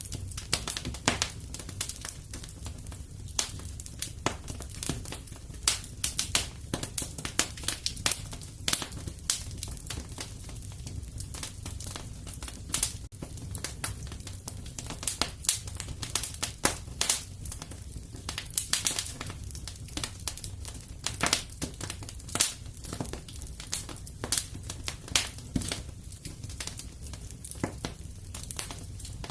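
Wood fire in a fireplace crackling: frequent, irregular sharp pops and snaps over a low, steady rumble of flame.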